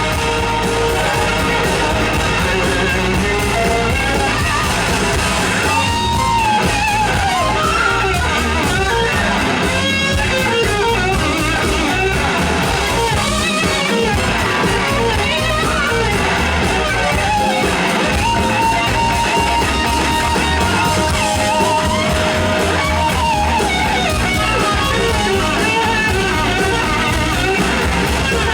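Live rock band playing an instrumental passage: an electric guitar plays a lead line with gliding, bending notes over drums and bass.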